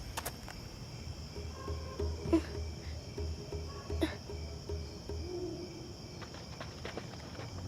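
Crickets chirring steadily as a night ambience, with a few faint clicks and a soft low pulsing underneath.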